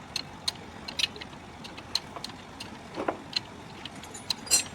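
Irregular clicks and light metallic taps of tools and parts being handled while an Ashok Leyland BS2 diesel engine is taken apart, with a sharper ringing metal clink near the end.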